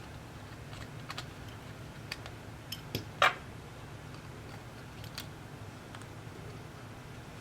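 Scattered light clicks and taps of small tools and parts being handled at a repair bench, about eight of them at irregular intervals, the loudest about three seconds in, over a steady low hum.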